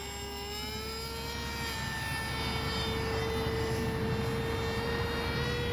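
HobbyZone AeroScout RC plane's electric motor and propeller whining in flight. The pitch rises slightly over the first two seconds and then holds steady, growing a little louder.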